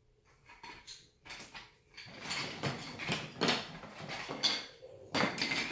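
Wooden toy railway track pieces clacking and scraping against each other as they are handled, a string of irregular knocks that grows busier after about two seconds.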